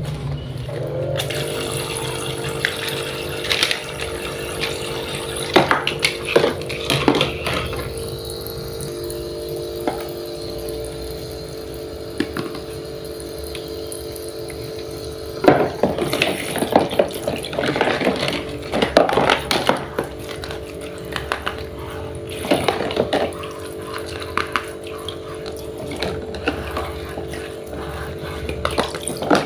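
Small battery motor of a toy kitchen set running with a steady hum, with water running and plastic pieces clicking and knocking over it.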